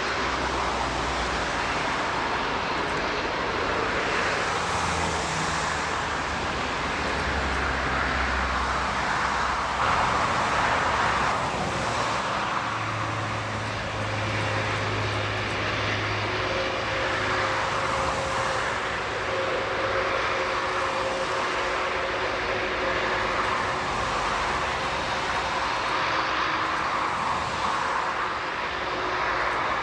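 Jet engines of a three-engined airliner running: a steady, even jet noise with faint humming tones underneath.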